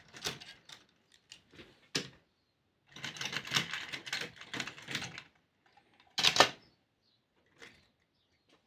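Clicks and rattles of a plastic model steam locomotive and its tender being lifted off the track and handled, with a run of light clatter in the middle and a sharper knock about six seconds in.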